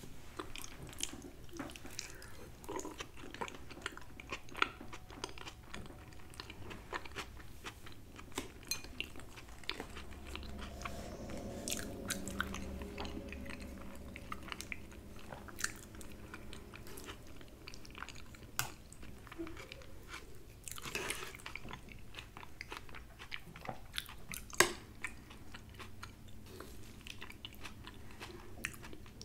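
Close-miked chewing of soft food, meatloaf and mashed potatoes in gravy, with many small wet mouth clicks. A low hum runs for a few seconds about a third of the way in, and one sharp click stands out near the end.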